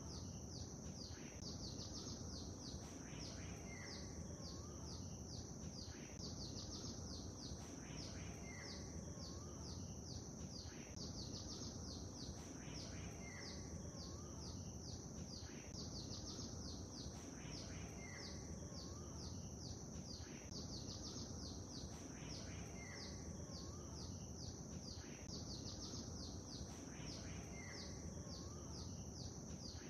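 Faint lakeside ambience: a steady low wash of water sound under continual high chirping birdsong, with a lower bird call recurring every five seconds or so.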